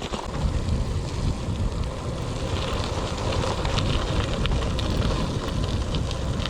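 Gravel bike rolling over a rough gravel track: a steady crunch and rumble from the tyres with scattered clicks of stones, and wind buffeting the microphone.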